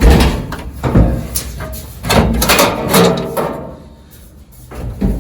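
A series of knocks and clunks from handling and fitting parts on an old truck's gas tank and fuel hose: one at the start, another about a second in, a busy cluster a little after two seconds, then a lull and a last knock near the end.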